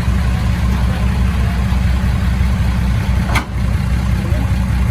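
Heavy diesel engine of construction machinery running steadily at a low, even rumble, with a single brief click about three and a half seconds in.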